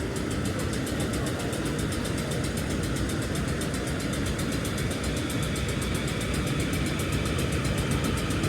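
Electric suburban train running, a steady rumble and hiss with a fast even flutter in the high end.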